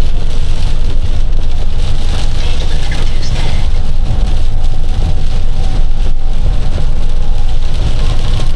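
Inside a box truck's cab while driving on a wet highway: a steady low drone of engine and road noise, with a hiss of rain and tyre spray over it.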